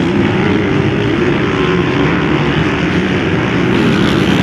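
Several motocross bike engines running hard at once, their pitch rising and falling as the riders rev and shift.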